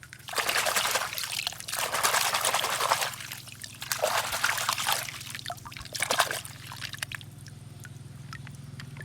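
Water pouring and splashing in a few loud spells over several seconds, as when a toy is rinsed clean. After that a low, steady hum with a few small clicks remains.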